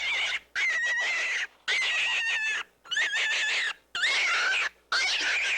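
Rabbit squealing: a run of about six short, high, noisy squeals, each under a second long with brief pauses between them.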